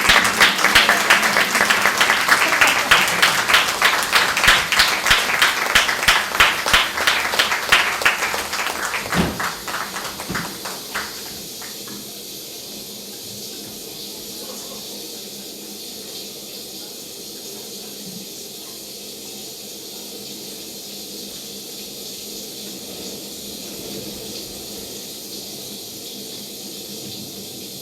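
Audience applauding, the clapping thinning out and stopping about ten seconds in. After that there is only a steady hiss of room and recording noise.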